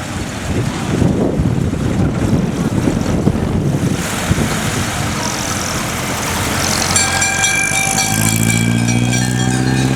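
Vintage fire engines' engines running as they parade past. About seven seconds in, a fire bell starts ringing, and a steady, low horn-like tone joins it about a second later.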